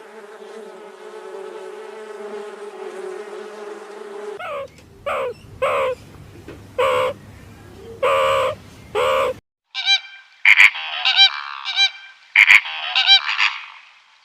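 A steady buzzing drone for about four seconds, then about six short honking bird calls, then a run of higher, faster bird calls near the end.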